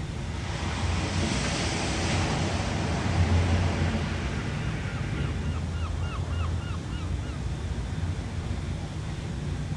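Ocean waves breaking and washing in over a steady low rumble of surf. The wash swells about a second in and eases off after about four seconds. In the middle comes a quick run of about seven short chirps.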